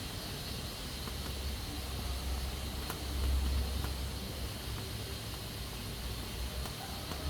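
Pressure cooker hissing steadily as steam escapes from its valve, over a low rumble, with a couple of faint ticks.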